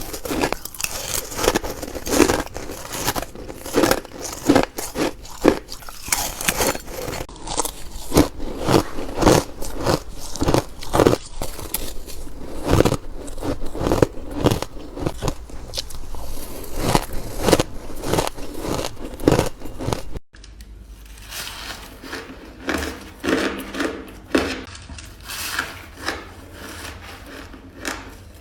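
A person biting and chewing ice: a run of crisp, sharp crunches, one or two a second. There is a brief break about two-thirds of the way in, after which the crunching is softer.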